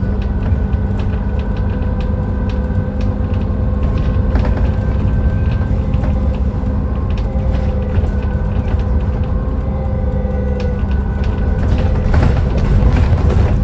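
Dennis Trident 2 Enviro400 double-decker bus running on its replacement engine, a steady drone that holds one pitch, with scattered clicks and rattles and a brief noisier patch near the end.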